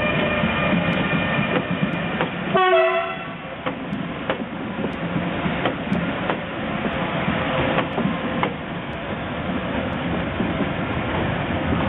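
ÖBB class 1116 electric locomotives pulling a train away, with a steady whine in the first couple of seconds. A short horn blast comes about two and a half seconds in, followed by scattered wheel clicks over rail joints.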